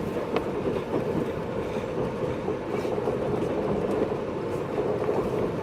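Running noise heard inside a JR East 583-series electric train car at speed: a steady rumble of wheels on rail with a few faint clicks.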